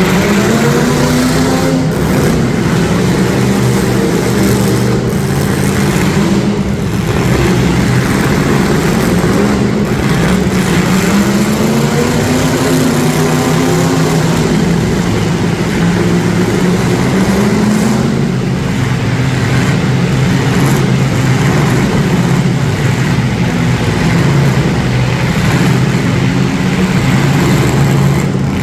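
Demolition derby street stock cars with their engines revving hard, pitch rising and falling again and again, with a few sharp knocks along the way.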